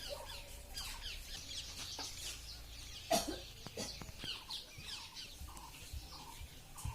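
Birds chirping in many short, quick falling notes, with one louder, sharper call about three seconds in.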